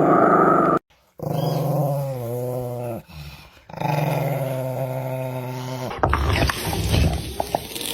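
A dog growling and grumbling in low, drawn-out stretches, several times over, broken by abrupt cuts. A noisier stretch with a few clicks follows near the end.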